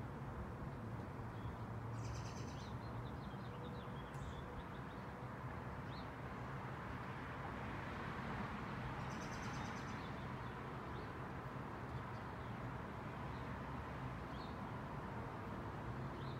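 Small birds chirping now and then over a steady low outdoor hum, with two short, high, rapid trills, one about two seconds in and one near the middle.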